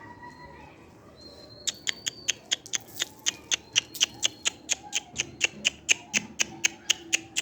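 Pigeons pecking at scattered wheat grains: a quick, even run of sharp taps, about four or five a second, starting a second and a half in. The birds are hungry and feeding eagerly.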